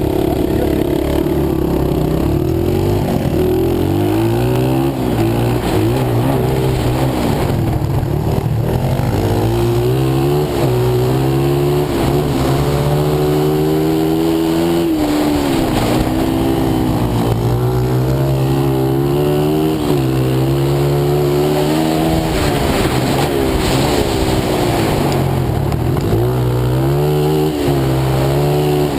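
Pit bike engine revving under load while ridden, the pitch climbing and then dropping back again and again as it accelerates, shifts and slows through turns.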